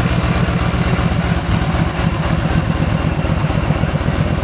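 Yamaha V-Star cruiser's V-twin engine idling steadily through its stock exhaust, with an even low pulsing beat.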